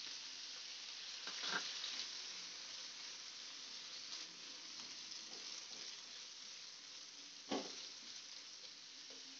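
Onion-tomato masala with green peas sizzling in oil in a small non-stick frying pan as it is stirred with a spatula. Two sharper spatula strokes against the pan stand out, one about a second and a half in and a louder one about two seconds before the end.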